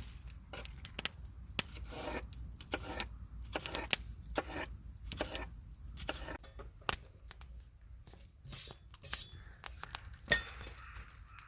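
Irregular clinks, scrapes and rustles of cooking utensils and dishes being handled during camp food preparation, with one sharper click about ten seconds in.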